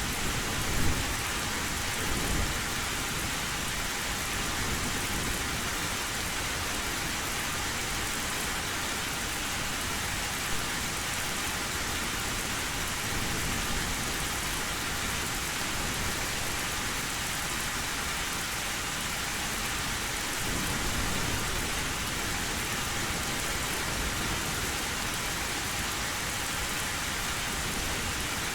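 Heavy rain falling steadily on an old tin roof, an even hiss. Low thunder rumbles in near the start and again about two-thirds of the way through.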